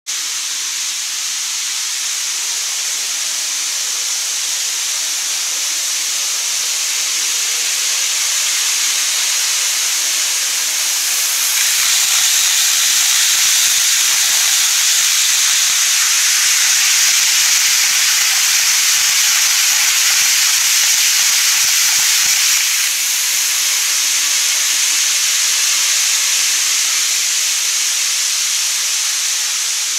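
N-gauge model 200 series Shinkansen trains running on a model-railway track, giving a steady high rolling hiss. It gets louder from about twelve seconds in to about twenty-three seconds, with rapid clicking from the wheels and track, as a train passes close.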